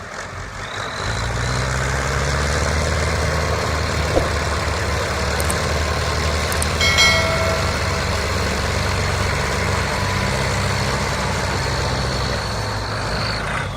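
Tractor diesel engine running hard under load, a steady low rumble that comes in about a second in, with a faint steady whine above it. A short pitched tone sounds once about halfway through.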